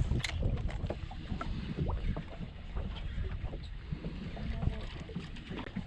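Wind rumbling on the microphone aboard a small fishing boat, with scattered light knocks and clicks from the boat and gear.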